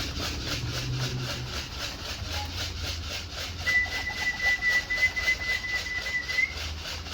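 A single long, steady whistle that begins about halfway through, holds for about three seconds and rises slightly at its end. Underneath it runs a fast, even pulsing of about five beats a second.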